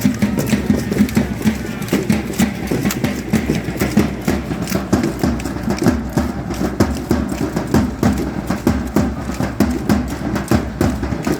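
Matachines dancers' stamping steps and rattles clattering in a quick, continuous rhythm, full of sharp clicks.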